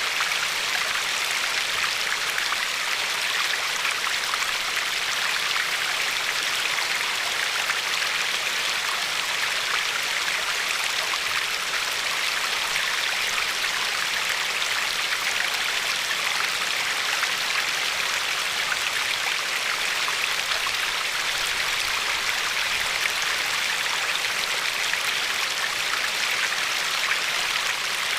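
Glacier-fed river running steadily over a pebbly shore, a constant hiss of rushing water with fine splashing.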